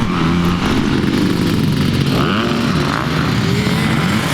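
Dirt bike engine running hard under throttle, its pitch sweeping up sharply twice as it revs.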